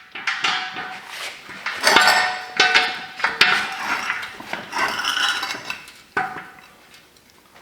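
Heavy steel parts of a trailer landing-gear leg and its hydraulic cylinder being handled: a run of metal clanks, knocks and scrapes, some ringing, the last one about six seconds in.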